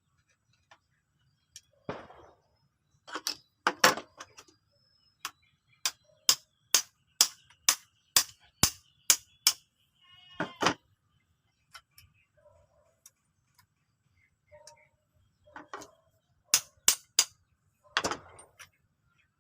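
Sharp clicks and knocks from hands working on a CO2 airgun, with a quick regular run of about two clicks a second in the middle.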